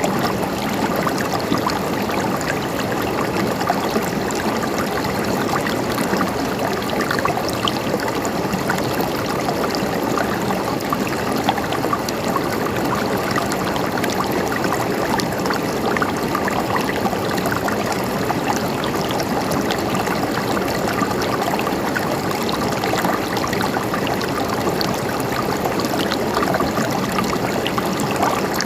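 Flowing water running steadily, a continuous gurgling with many small splashes scattered through it.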